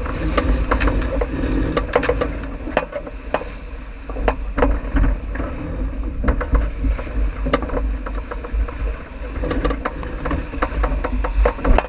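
J80 sailboat underway downwind: a steady low rumble and rushing noise, with frequent short clicks and knocks throughout.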